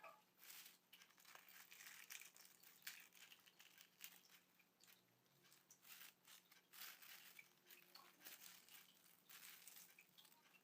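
Faint crinkling and rustling of takeaway food wrapping being handled and opened, in short irregular bursts.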